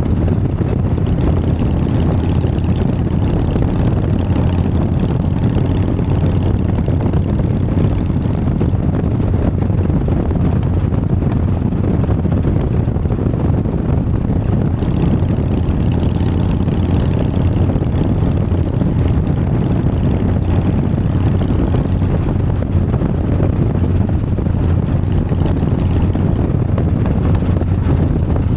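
Harley-Davidson Sportster's V-twin engine running steadily under way: a constant low drone that does not rise or fall.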